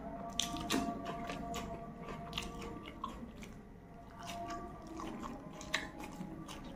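Close-miked crunching and chewing of raw food: a slice of cucumber is bitten, then a mouthful of fresh leafy greens is chewed, with a string of sharp crisp crunches.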